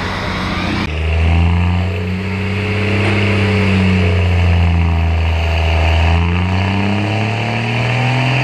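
Turbo diesel pickup engine making a dyno pull: about a second in it goes suddenly to a loud, deep, steady drone under full load and holds there with only slight changes in pitch.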